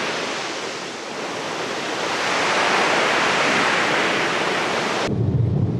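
Ocean surf: a steady rush of breaking waves that swells and eases, cutting off abruptly about five seconds in, where a low rumble takes over.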